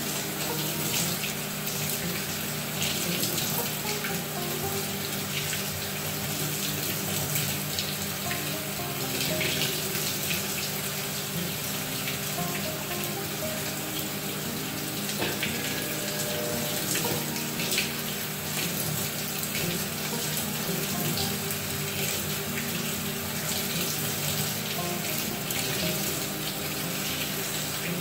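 Water running steadily into the tub of a Maytag top-load agitator washing machine, with scattered small splashes and clicks.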